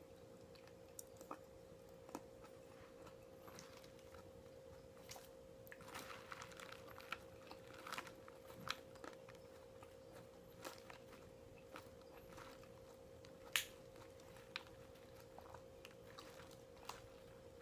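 A person eating in close-up: quiet chewing and biting with scattered small clicks and taps, the sharpest about three-quarters of the way through. A steady faint hum sits underneath.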